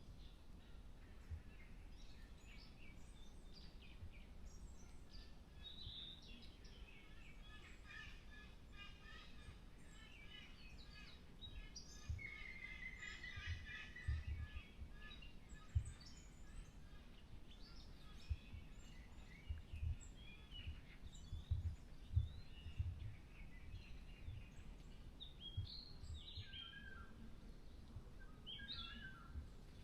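Several wild birds singing and calling at once in a forest, a mix of short chirps and phrases with one longer trill partway through. Scattered low bumps sound on the microphone, mostly in the middle stretch.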